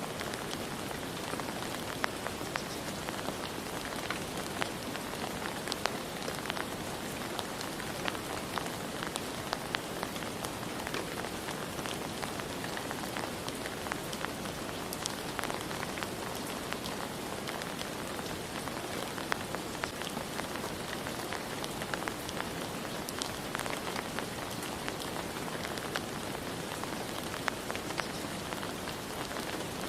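Steady rain falling, an even hiss with many distinct drops pattering on a surface.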